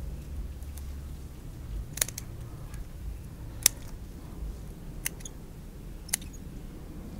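Bonsai scissors snipping small twigs and shoots: about four crisp, separate snips, some in quick pairs, over a low steady hum.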